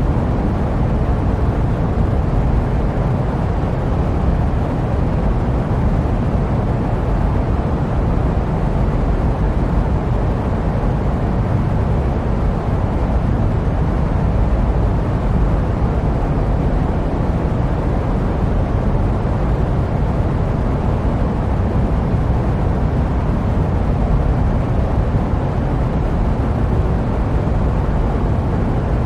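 Steady jet-airplane noise used as sleep white noise: an even, deep rumble with little high-end hiss, unchanging throughout.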